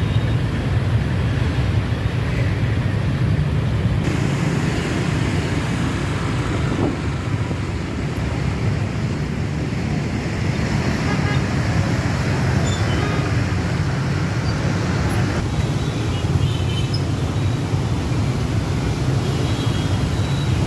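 Busy motorbike traffic heard from a moving motorbike: a steady drone of engines and road noise.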